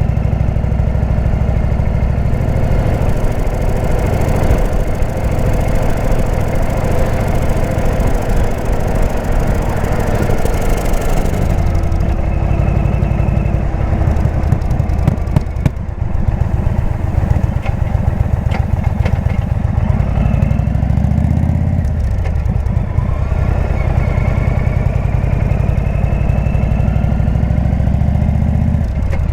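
Indian V-twin motorcycle engine running under way through a Jekill & Hyde exhaust, with rushing wind noise over it for the first ten seconds or so. The engine note rises a little past two-thirds of the way in and climbs again near the end as the bike speeds up.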